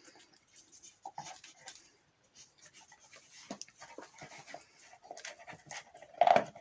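A dog digging in earth: short, irregular scrapes of its paws in the soil with panting between them, and one louder short burst near the end.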